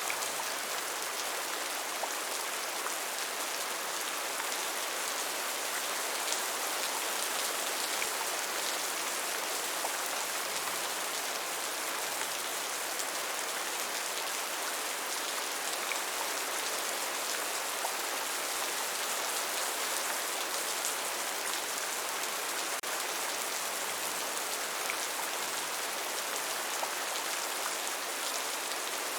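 Steady rainfall, a dense even hiss of drops with scattered individual drop ticks.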